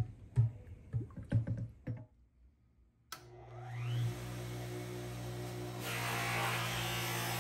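A few sharp metal clinks and knocks as the part is lifted out of an electrolysis rust-removal tank. Then, about three seconds in, a bench buffer with cloth buffing wheels switches on, its motor whine rising for about a second into a steady hum. About six seconds in, a cast metal ice-crusher part is pressed against the spinning buffing wheel, adding a rushing rub.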